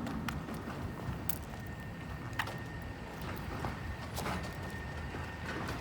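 Steady low engine and road rumble of a car driving, heard from inside the cabin, with a few scattered light clicks. A thin steady high whine comes in about four seconds in and holds.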